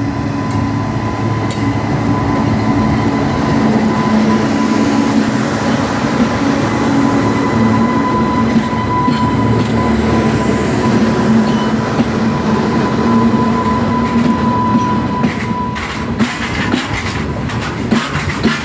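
Indian Railways electric freight locomotive passing close by, running with a low hum and a steady high whine. Near the end the open coal wagons behind it roll past, their wheels clicking over the rail joints.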